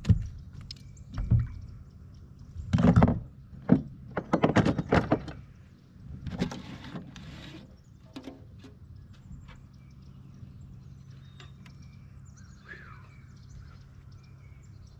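Water splashing and knocking as a hooked speckled trout is brought in and handled, in a few loud bursts over the first seven seconds. After that comes a quieter stretch with a low steady hum and faint clicks.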